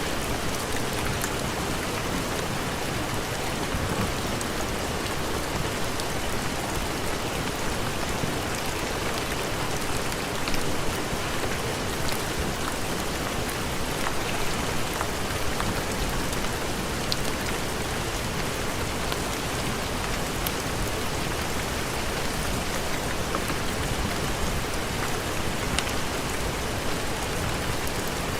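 Steady heavy rain: an even hiss with a few faint scattered ticks.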